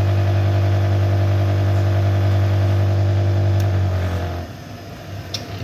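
Connecting-rod cap cutter's electric motor running with a steady hum, then switched off about four seconds in. A sharp click follows a second later.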